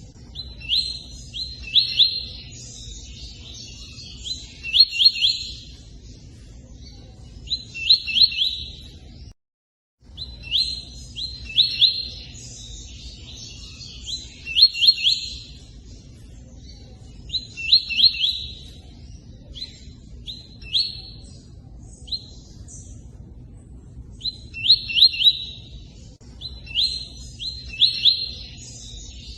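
Tui-tui bird song: short phrases of quick, sharp chirps repeated every one to three seconds, over a steady low rush of running water. The sound cuts out completely for about half a second just before ten seconds in.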